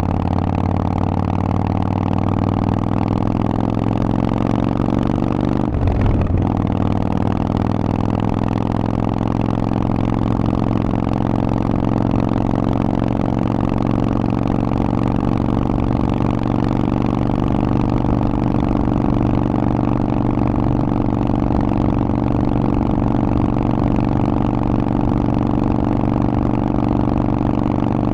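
Harley-Davidson Forty-Eight's V-twin running through a Vance & Hines exhaust while riding. About six seconds in the note breaks briefly, like a gear shift, then it rises slowly and holds steady.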